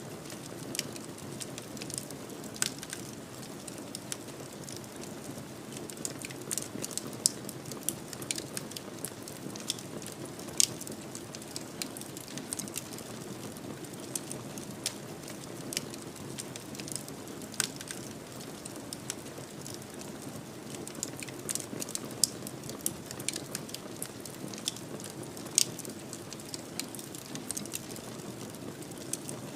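Wood fire crackling steadily, with frequent small irregular pops and a few louder snaps over a soft low rush of flame.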